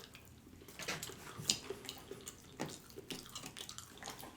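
Close-up wet chewing of barbecue meat: soft, irregular mouth clicks and smacks.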